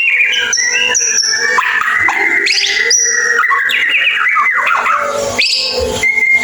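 White-rumped shama (murai batu) singing in its rapid, chattering 'ngeriwik' style: a steady stream of varied whistles, quick pitch glides and twitters.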